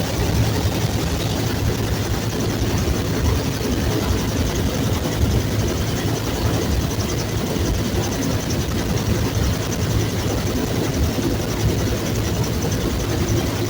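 Bell UH-1 Huey helicopter running steadily, its engine and rotor noise loud and even throughout.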